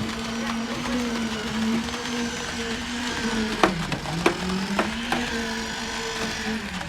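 A machine's motor runs with a steady hum whose pitch sags twice, as if briefly loaded, with a few sharp knocks in the middle.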